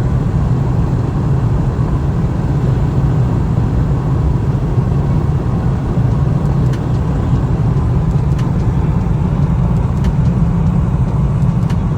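Steady, loud rumble and road noise of a car driving at a constant speed, with no change in pitch.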